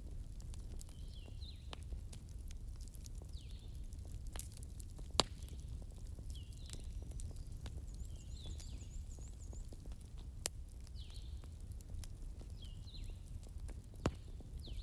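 Wood campfire crackling, with scattered small ticks and three louder sharp pops, over a low steady rumble. Behind it a bird gives short chirps about every two seconds.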